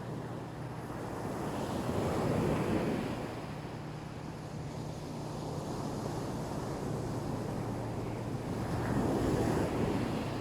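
Black Sea waves washing onto the shore, two surges of surf about two seconds in and again near the end, with a steady low hum underneath.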